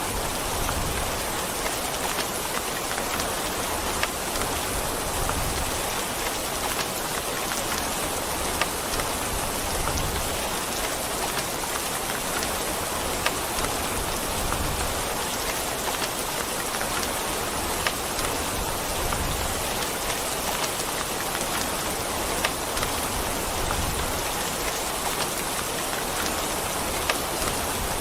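Steady heavy rain falling on a surface, with an even hiss and scattered sharp drop splats.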